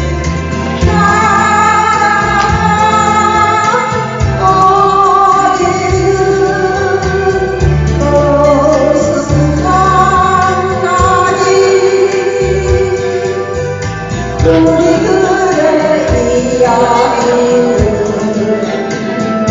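A woman singing a slow folk song with vibrato over an instrumental accompaniment with a steady bass line.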